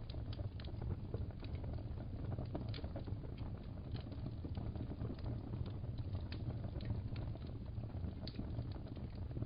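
Fireplace fire crackling: irregular sharp pops and clicks over a steady low rumble of burning.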